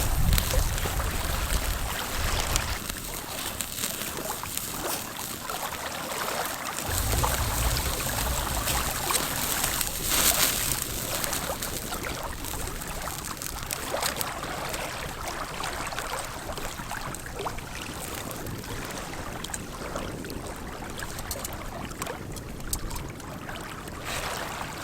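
Wind gusting against the microphone outdoors, with heavy low buffeting surges at the start and again a few seconds in, over a steady rushing hiss.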